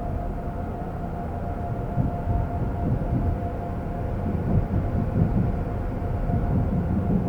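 Seoul subway train running between stations, heard from inside the car: a steady low rumble of wheels on the track with a faint steady whine, the rumble growing rougher about two seconds in.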